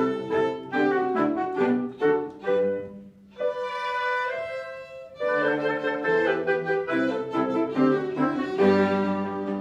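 Live chamber ensemble playing classical music, violin to the fore with bowed strings and piano beneath. About halfway through the texture thins to a few held notes for a couple of seconds before the full ensemble comes back in.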